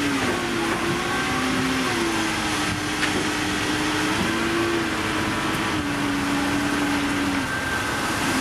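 Heavy construction machine's engine running steadily, its pitch shifting up and down a few times.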